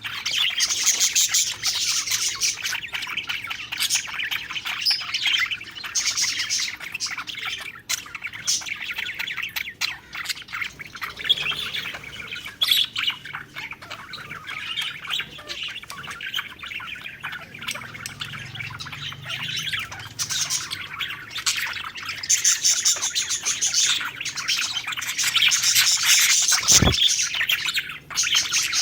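Budgerigars chirping and warbling continuously, several birds at once in rapid, overlapping chatter. A sharp click sounds a little before the end.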